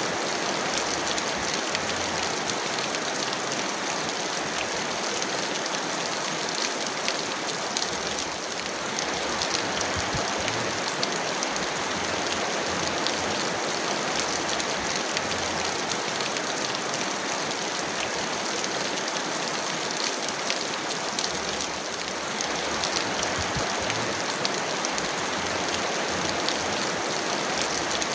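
Heavy rain falling steadily: an even hiss full of small drop impacts, easing slightly in level twice.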